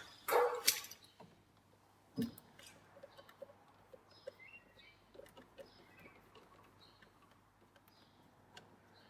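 Hand-working noises on a van door: a loud brief scrape or rustle at the start, a single knock about two seconds in, then faint light clicks and ticks, with faint bird chirps in the background.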